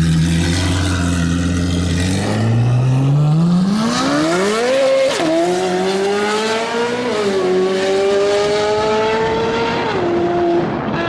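Chevrolet Corvette C8 Z06's flat-plane-crank V8 through an aftermarket exhaust, accelerating hard: the revs climb steeply, then drop sharply at three upshifts about 5, 7 and 10 seconds in, rising again after each.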